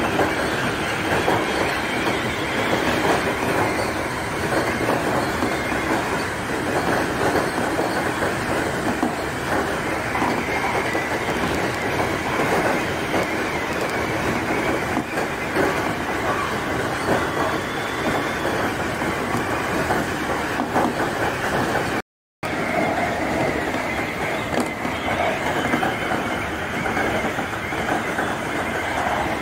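Seibu Shinjuku Line electric commuter train running steadily, heard from on board: the continuous rumble and clatter of wheels on rail, with a faint high whine that comes and goes. The sound drops out for a split second about two-thirds through.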